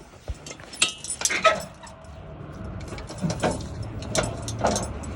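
Sharp metallic knocks and clanks, then a steady low motor hum that builds from about two seconds in, with a few clicks over it: a truck's lift gate being worked.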